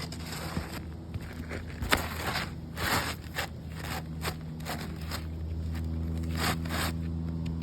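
Brittle, deteriorated asphalt shingles being handled and lifted, giving a run of irregular scrapes and crackles over a steady low hum.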